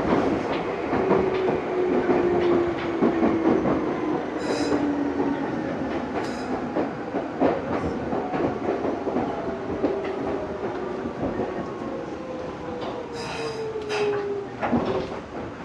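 Meitetsu 6000 series electric train running, heard from inside the car: steady wheel-on-rail rumble with scattered knocks over the rails, and a motor and gear whine that slides down in pitch.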